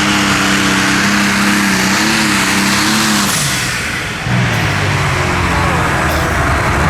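Modified pulling tractor's engine running hard at high revs, then about three seconds in its pitch slides down and it runs on at much lower revs, falling off power; the announcer wonders whether the throttle cable broke.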